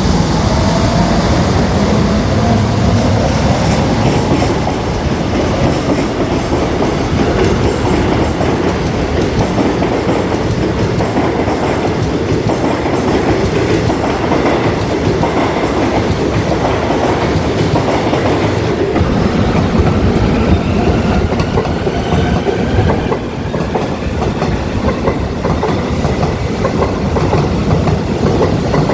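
A train running past on its rails, loud and steady throughout.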